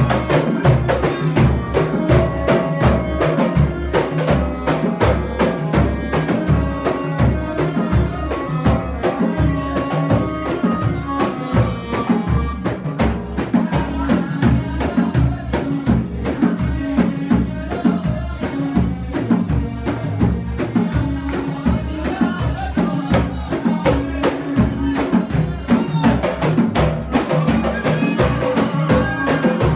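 Samri, Gulf Arabian folk music: many frame drums beaten together in a fast, steady rhythm, with a group of voices singing over them.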